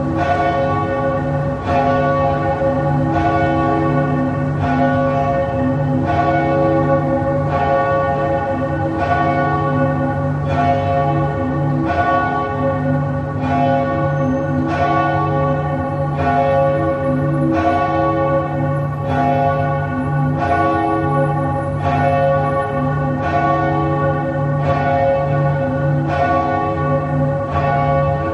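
Church bell tolling steadily, about one stroke every second and a half, each stroke ringing on into the next.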